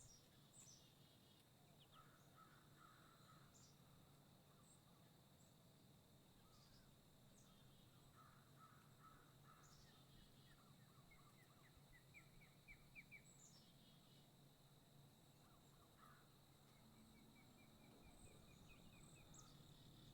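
Faint birdsong in quiet outdoor ambience: scattered short high chirps, with two quick runs of rapid chirps, one about halfway and one near the end.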